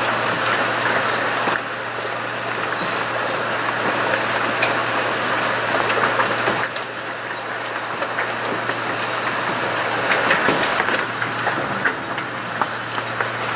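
Heavy rain with hailstones clattering down: a dense hiss scattered with many sharp ticks, over a steady low hum. The sound shifts abruptly twice.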